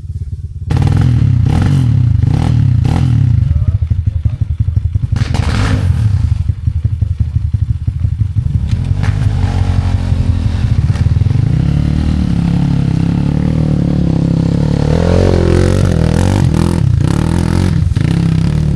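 Enduro motorcycle engine revving hard and unevenly, its pitch rising and falling as the bike is worked up a steep, rough section, with scattered knocks and clatter of the bike hitting rock and ground.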